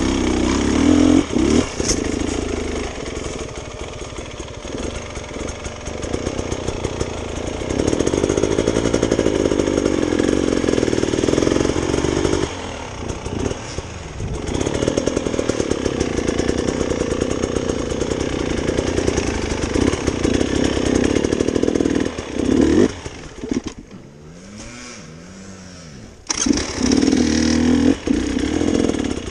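Enduro motorcycle engine running under load on a steep climb, the throttle rising and falling. Near the end it drops to a low, quiet idle for a couple of seconds, then revs up again.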